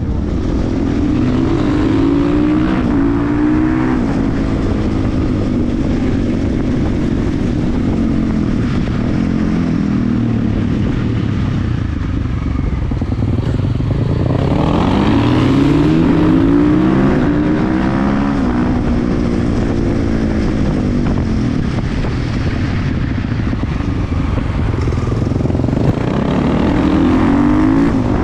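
KTM 350 EXC-F supermoto's single-cylinder four-stroke engine ridden hard, its pitch repeatedly climbing as it revs up and dropping back between pulls. The strongest run-ups come near the start, about halfway through, and near the end.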